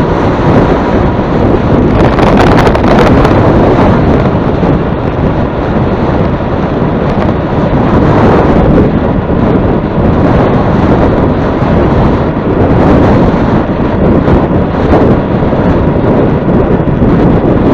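Strong wind buffeting the microphone: a loud, continuous rumbling rush that swells and eases every few seconds.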